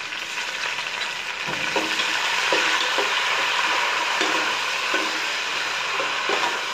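Ginger and garlic paste frying in hot oil with fried onions in an aluminium pot, sizzling steadily as a metal spatula stirs it and scrapes the pot bottom with repeated strokes.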